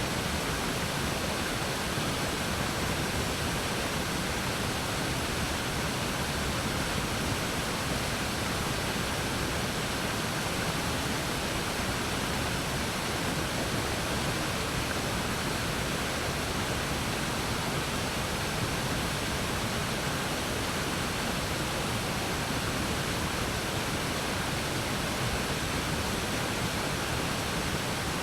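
Waterfall on a mountain river: water falling and churning in a steady, even rush.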